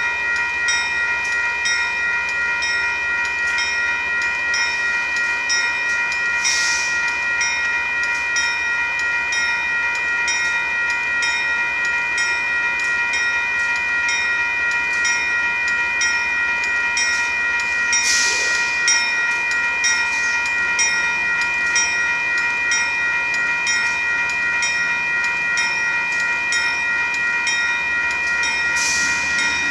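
Union Pacific gravel train rolling past, under a steady ringing tone that repeats about twice a second. Three brief hisses come through along the way.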